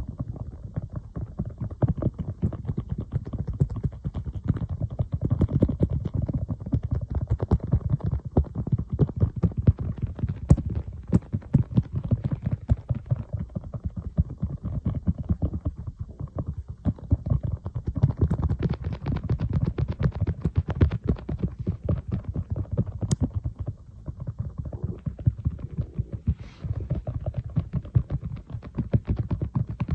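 Fingertips tapping rapidly on an iPad, many dull taps a second with only short pauses.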